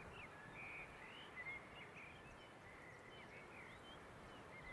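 Faint birds chirping: many short high chirps and little trills over a low, steady hiss.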